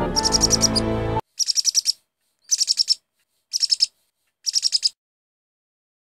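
Bird chirping in five short bursts of rapid, evenly spaced chirps, each about half a second long; background music stops about a second in.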